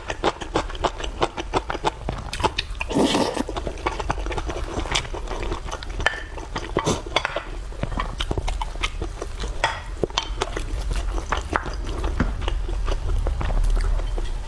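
Close-miked eating: wet chewing with rapid mouth clicks and smacks, fastest and most regular at the start, and a longer noisy sound about three seconds in.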